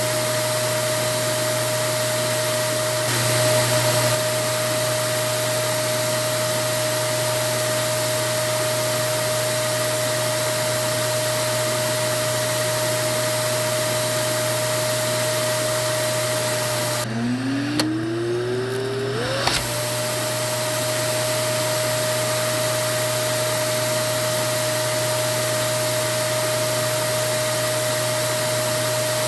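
Vacuum cleaner running steadily: a constant rush of air with a steady motor whine. About 17 seconds in the whine drops out with a couple of clicks, then rises in pitch over about two seconds as the motor spins back up to its steady running tone.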